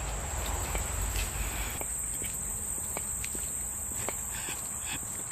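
Insects trilling in one steady, high-pitched chorus, with a low rumble underneath and a few faint ticks.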